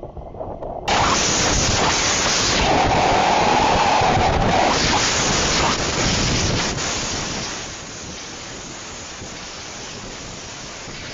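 Storm noise: a loud, steady rush of wind buffeting the microphone. It starts abruptly about a second in and drops in level about two-thirds of the way through.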